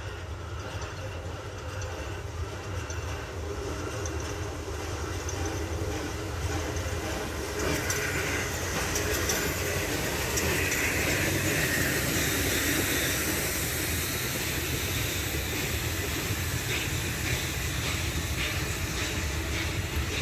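Train running on the rails, a steady rumble with some wheel clatter, growing louder over the first ten seconds or so and then holding steady.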